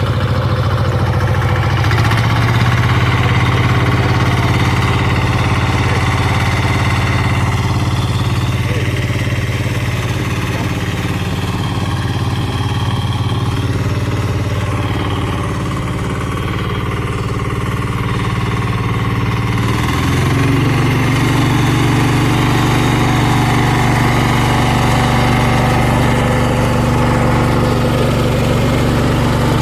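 Diesel engine of a Valpadana 4RM 180 four-wheel-drive mini tractor running steadily, working a rotary tiller in hard soil. The engine note shifts slightly about two seconds in and again about twenty seconds in.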